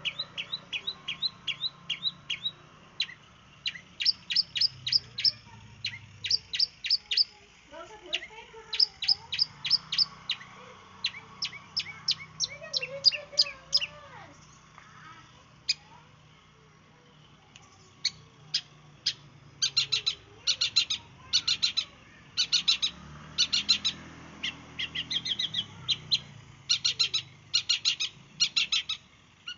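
Long-tailed shrike (cendet) singing in rapid bursts of short, sharp, high chips, each burst a quick run of several notes. After a pause of a few seconds in the middle, the bursts come denser and louder towards the end.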